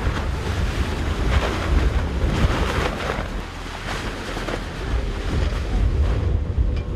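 Wind buffeting the microphone: a loud, gusting rush with a heavy low rumble that swells and eases every second or so.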